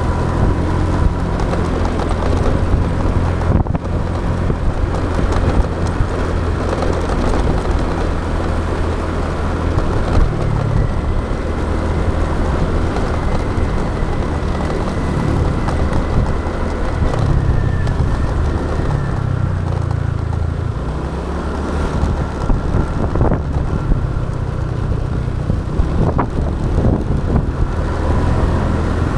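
Motorbike engine running while riding, its pitch shifting as it speeds up and slows about a third of the way in and again past the middle, over a steady rush of wind and road noise.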